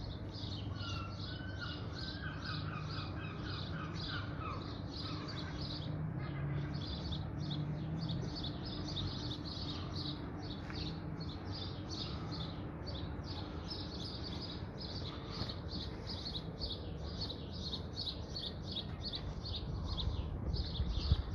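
Birds chirping continuously in quick, repeated notes. Another bird sings lower phrases in the first few seconds. A steady low background rumble runs underneath.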